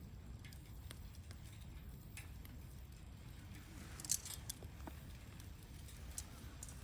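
Wood campfire crackling faintly, with sparse small pops over a low steady rumble and one sharper snap about four seconds in.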